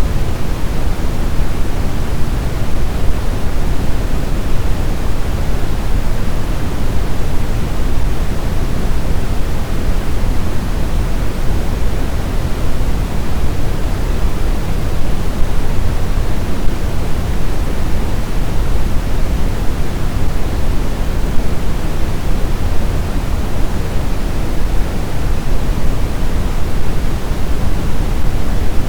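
Steady snowstorm wind: an even rushing noise, heaviest in the low end, with no distinct gusts, howls or changes.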